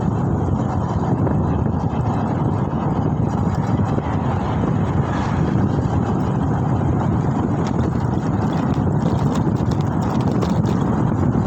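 Steady wind rushing over the microphone mixed with road and traffic noise while riding.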